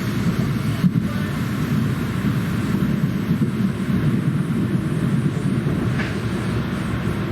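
Regional train running along the line: a steady, even rumble.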